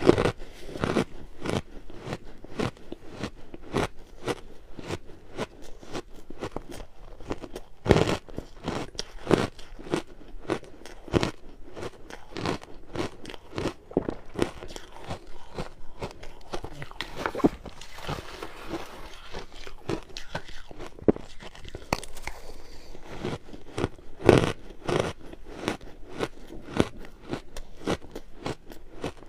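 Purple ice being bitten and chewed close to the microphone: a steady run of crisp crunches, with a few louder cracking bites among them.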